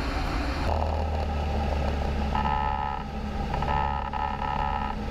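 Cessna 152's engine and propeller drone in cruise, heard from the cockpit as a steady low hum. A faint higher tone comes in twice near the middle.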